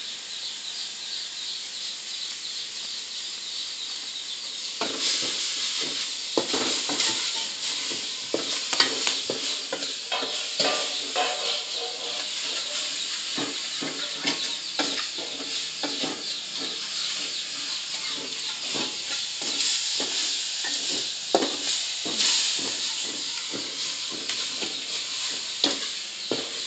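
A spice paste of chili, red onion and garlic sizzling in hot oil in a wok. From about five seconds in, a spatula scrapes and clatters against the pan as it is stirred.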